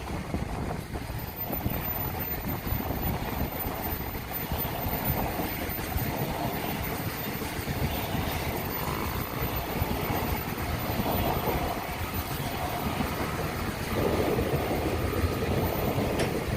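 Freight train passing at speed: a steady rumble of wagons running over the rails, growing a little louder near the end.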